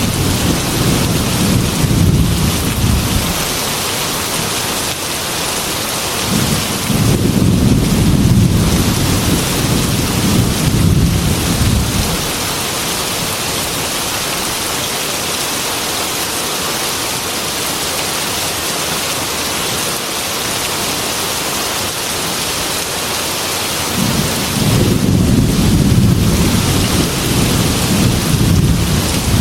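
Heavy rain pouring steadily, with rolls of thunder rumbling low underneath. A long roll fades out about three seconds in, another swells from about seven to twelve seconds in, and a third builds near the end.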